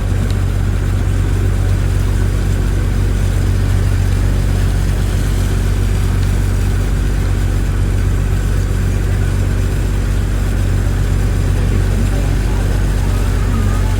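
Engine running at a steady idle-like drone, a low hum with a constant pitch.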